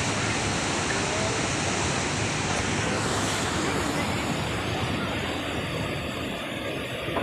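Waterfall rushing: a steady, dense roar of falling water that becomes a little fainter and duller over the last few seconds.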